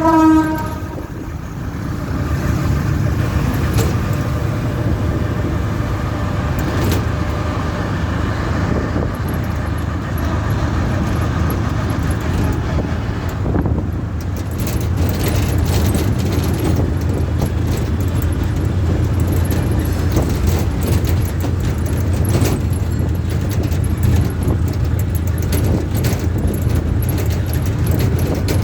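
Train running with a steady low rumble, a short horn-like tone right at the start, and a faint whine over the first several seconds, with a few sharp clicks later.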